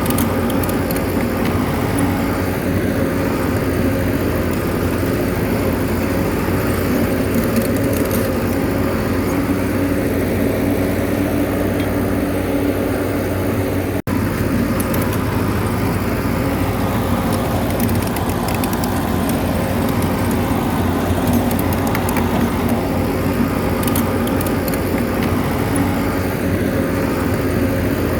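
Bulldozer's diesel engine running steadily under work, with faint clicks over it and a brief break about halfway.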